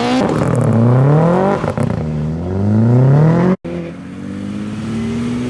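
Sports car engine accelerating hard, its pitch climbing steeply and dropping at each of two gear changes. After a sudden brief cut-out, a quieter engine note rises slowly.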